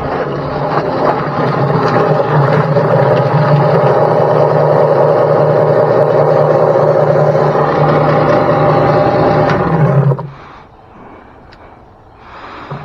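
Motorized chicken plucker running steadily with scalded birds tumbling inside, a loud machine drone; it shuts off abruptly about ten seconds in.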